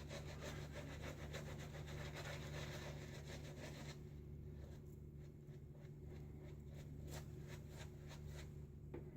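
Faint scratchy rubbing of a stiff boar-bristle shaving brush working lather. The strokes are dense for the first few seconds, then thin out to scattered scratches.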